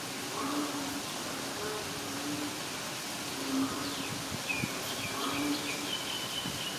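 Steady rain falling, an even hiss. Short low calls repeat about once a second over it, and thin high-pitched calls join about four and a half seconds in.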